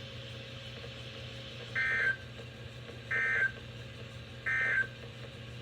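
NOAA Weather Radio SAME end-of-message data bursts: three short, identical bursts of screeching digital warble about a second apart, marking the end of the warning broadcast. A steady low hum runs underneath.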